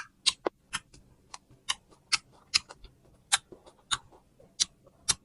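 Close-up chewing of crunchy sour plum: a string of short, sharp crunches, roughly two a second and unevenly spaced.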